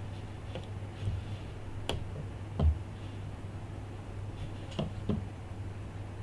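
Scattered small clicks and taps from handling the iPhone 5 and its small parts during a screen repair, with one louder knock about two and a half seconds in, over a steady low hum.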